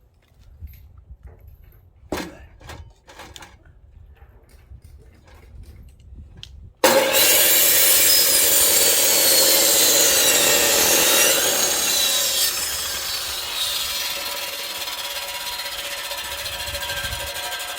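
Electric chainsaw cutting firewood: after a few faint knocks, the saw cuts in loud and suddenly about seven seconds in and runs steadily through the wood, easing off a little in the second half.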